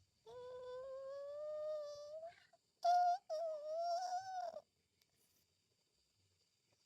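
A high voice humming: one long note that slowly rises in pitch, then a short note and a second, wavering note, with silence after them.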